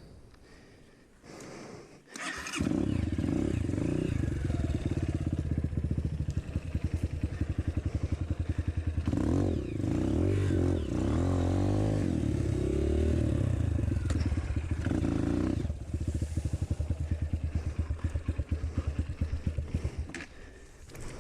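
Dirt bike engine starting up about two seconds in and running with a rapid pulsing beat, revved up and down in the middle, then dropping back to a slower, looser beat that fades near the end.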